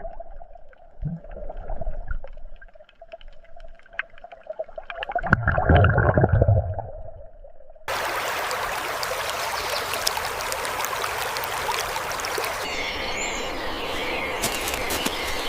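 A faint steady hum with scattered clicks and a louder low rumble in the middle, cut off suddenly about eight seconds in by the steady rush of running water.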